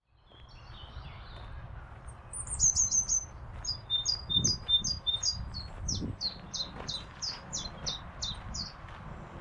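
Songbirds singing in woodland: a long series of quick, high, repeated notes starting about two seconds in, with a lower short note repeated alongside.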